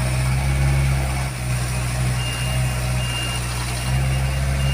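Heavy diesel machinery engine running steadily, with a reversing alarm beeping from about two seconds in, one high tone sounding on and off.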